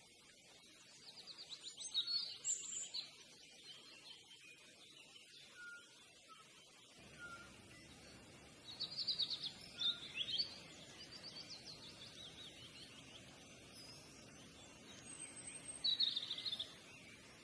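A small songbird singing three short, high, trilled phrases a few seconds apart, over faint steady background noise.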